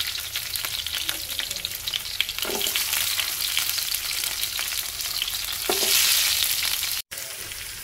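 Garlic cloves, curry leaves and green chillies frying in hot oil in a kadai: a steady crackling sizzle, the tempering for a curry. It swells about six seconds in and cuts out for an instant just after.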